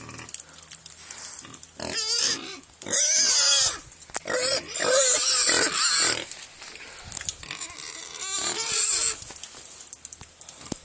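Pig screaming in a run of loud, piercing squeals between about two and six seconds in, and again near nine seconds: the squealing of a pig that objects to being handled.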